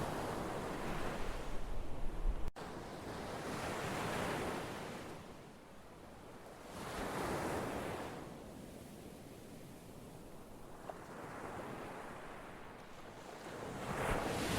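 Ocean waves breaking and washing up, the surf swelling and falling back about every three to four seconds. A heavier, rumbling stretch at the start cuts off abruptly about two and a half seconds in.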